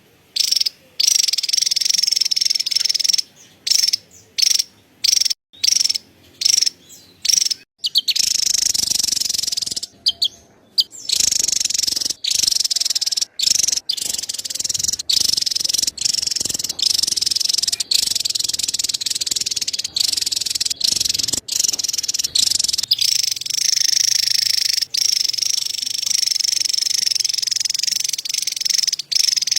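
Javan tesia giving its rapid, high-pitched chattering call. The chatter comes in short runs with brief breaks for the first few seconds, then in long, nearly unbroken runs.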